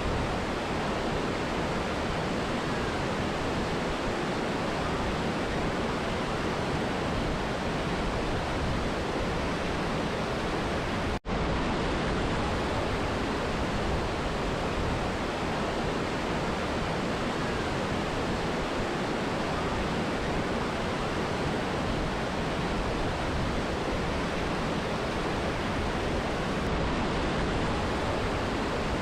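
Steady rush of a mountain river and waterfall, an even roar of falling and flowing water. About eleven seconds in, the sound cuts out for a split second, then carries on unchanged.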